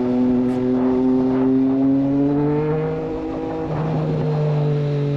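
Triumph Street Triple 765 inline three-cylinder engine through a Racefit Growler full exhaust, pulling under throttle with its pitch rising slowly. About three seconds in the note breaks up briefly, then it settles into a steady pull.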